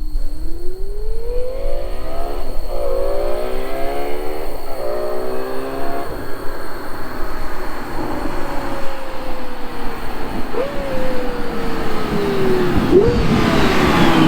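A high-revving supercar engine pulling hard up through several gears, its note climbing and dropping back at each upshift. It then winds down with two quick throttle blips on the downshifts before falling away at the end.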